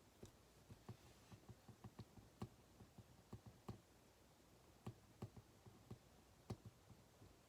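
Faint, irregular clicks and taps of a ballpoint pen writing on paper at a desk, about two to three a second, starting just after the beginning and dying away near the end.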